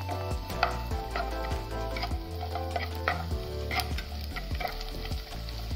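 Cashews and raisins frying in ghee in a nonstick pan, with a sizzle and the irregular scrapes and clicks of a spatula stirring them. Background music with held notes and a steady bass plays underneath.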